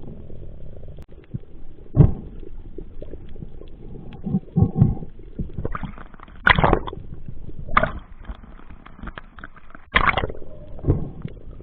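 Water gurgling and sloshing during a spearfishing dive, with several louder bursts, the strongest about six and a half and ten seconds in.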